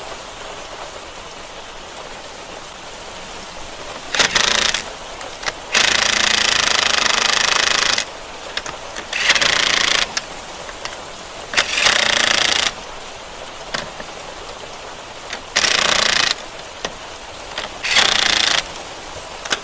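Six short bursts of a rattling power tool, each lasting from half a second to two seconds, over a steady background hiss.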